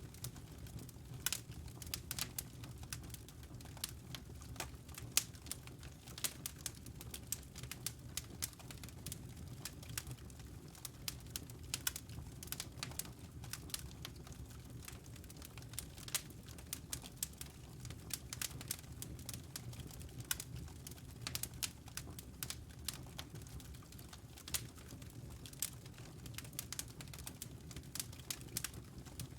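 Wood fire in a fireplace crackling: irregular sharp snaps and pops, several a second, over a steady low rumble.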